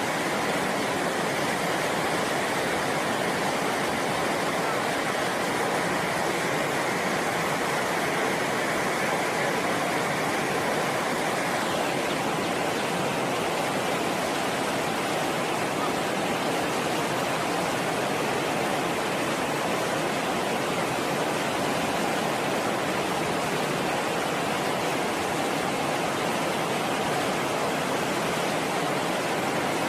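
Steady rush of flowing water, even and unbroken, its tone changing slightly about twelve seconds in.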